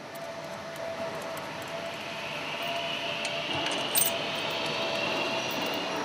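Steady machinery hum with a faint whine, and a few light metallic clinks, one a little louder about four seconds in.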